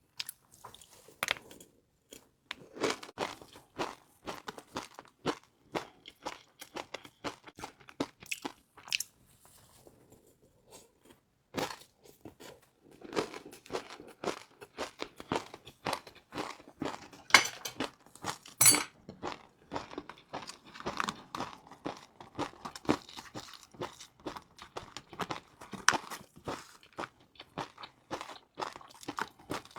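Close-miked eating of crispy fried noodles: rapid irregular crunching and chewing, with a brief pause about ten seconds in.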